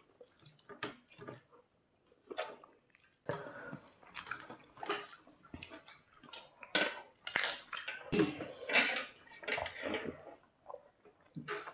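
Wet clicks and clinks of food and dishes being handled, in short irregular bursts that grow denser and louder after the first few seconds.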